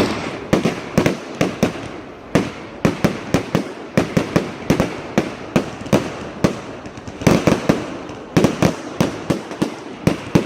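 Fireworks exploding in quick, irregular succession, several loud bangs a second, each followed by a short echo, with a brief lull about two seconds in.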